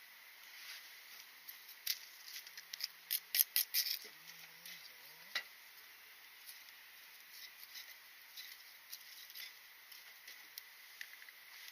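Small wood fire in a rocket-style stove crackling, with scattered sharp pops and a quick run of louder cracks about three to four seconds in.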